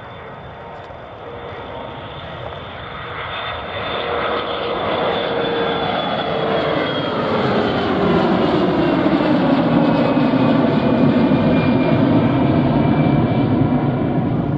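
Passenger aircraft's engines passing close by, swelling steadily louder over several seconds, with their whining tones sliding down in pitch as it goes past.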